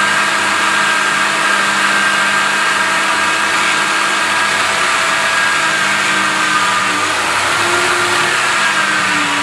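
Electric grinder running steadily with a polishing or brushing attachment on aluminum, its motor tone wavering slightly now and then.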